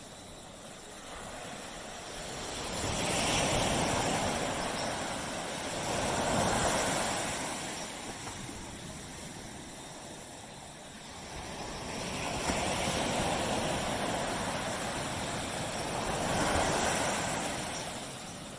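Ocean waves washing onto a tropical beach: two slow surges of surf swell and break, each rising over a few seconds and then drawing back to a softer wash.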